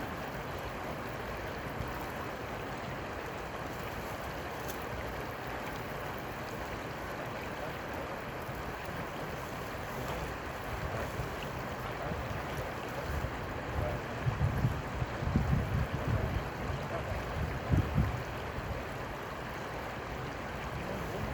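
Steady rushing noise of river water, with a cluster of low bumps and rumbles a little past the middle.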